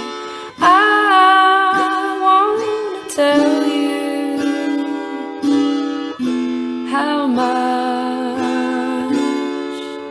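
A slow folk song: a woman's voice sings long, bending notes over a sparse, gently strummed acoustic guitar.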